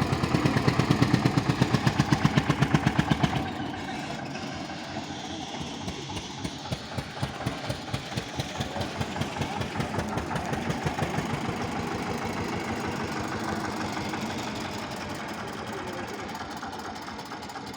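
Swaraj XT 744 tractor's diesel engine running, louder for about the first three and a half seconds and then dropping to a lower, steady, pulsing run.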